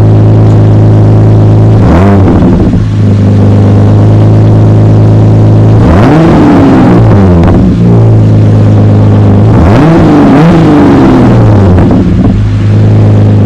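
Jeep Wrangler JL's 3.6L V6 idling through an aftermarket exhaust, blipped to rev and falling back to idle: once about two seconds in, then twice in quick succession around the middle and twice again near the end.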